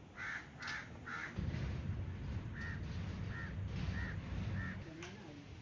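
A crow cawing: about seven short caws, three in quick succession near the start and four more spaced out after, over a low rumble in the middle.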